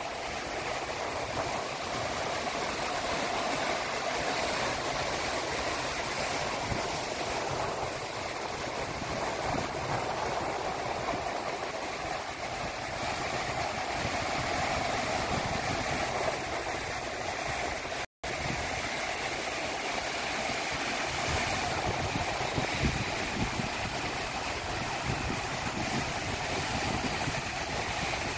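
Sea waves washing in continuously under a steady wind, a dense unbroken rush of surf. The sound drops out completely for an instant about two-thirds of the way through.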